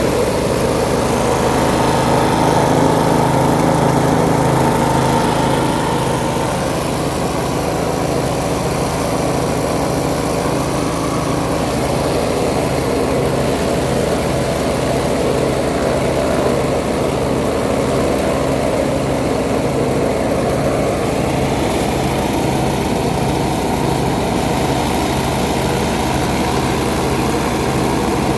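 Small engine driving a shredder–wood chipper, running steadily, slightly louder for the first few seconds.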